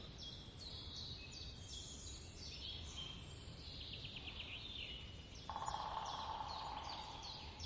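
Forest ambience: songbirds repeating short, high, falling chirps, with a rapid trill about halfway through. A steady rushing hiss joins about two-thirds of the way in.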